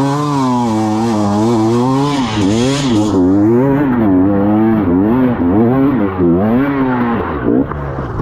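Dirt bike engine revving up and down over and over as the throttle is worked, the pitch rising and falling about once a second. A hiss runs under it for the first three seconds.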